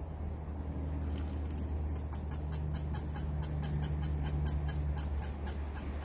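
Small backyard birds giving a few short, high chirps, over a steady low hum. In the middle there is a run of fast, high ticking, about four or five a second.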